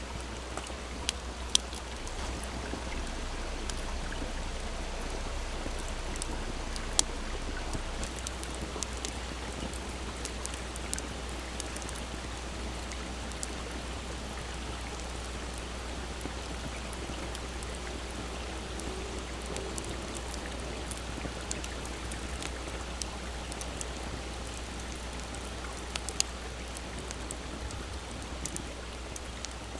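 Wood campfire crackling, with scattered sharp pops, over the steady rush of a small babbling stream.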